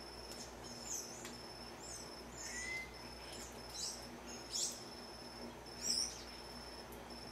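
Short, sharp bird chirps, about six of them and spread out, the loudest two coming near the end, over a steady, high, pulsing insect buzz.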